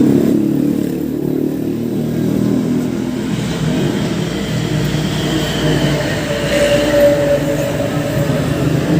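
Motor vehicle running, a steady engine and road hum heard while riding along.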